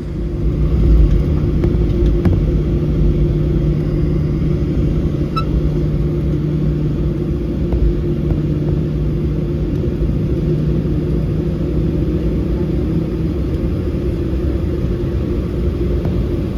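Cabin noise of a Boeing 737-700 taxiing after landing: a steady low rumble from its CFM56-7B jet engines at taxi power, with a constant low hum, swelling slightly about a second in.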